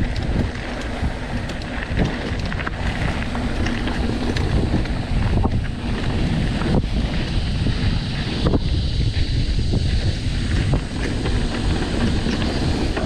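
Mountain bike riding a dirt trail: wind buffeting the microphone over the rumble of the tyres, with a few sharp knocks and rattles from the bike over bumps.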